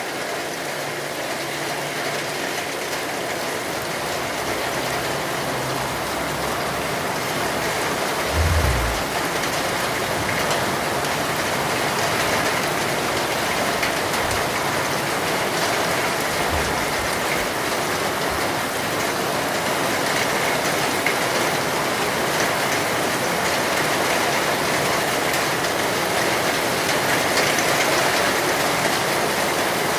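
Steady rainfall, an even hiss that grows slightly louder, with one brief low thud about eight seconds in.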